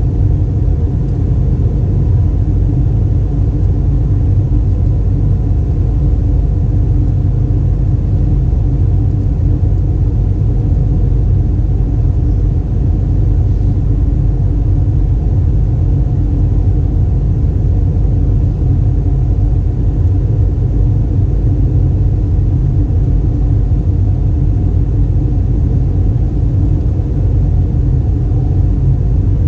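Steady low rumble of cabin noise inside a LATAM Airbus A320 in flight, the engines and airflow holding a constant drone with faint steady hum tones.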